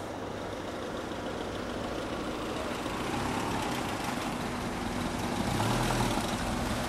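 Car engine running steadily, gradually growing louder, with a brief deeper surge of the low hum about five and a half seconds in.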